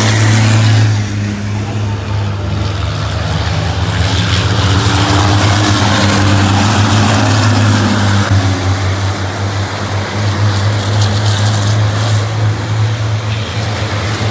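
Racing engines running on the circuit: a steady loud low drone, with one engine's pitch rising and then falling about a third of the way through.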